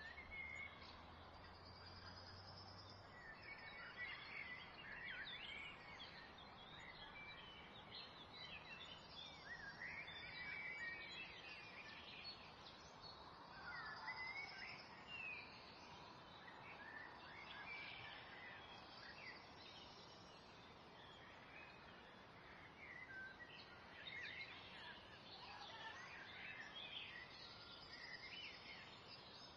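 Faint birdsong: many short chirps and whistles from several birds, over a soft steady background hiss, with a faint low hum in the first few seconds.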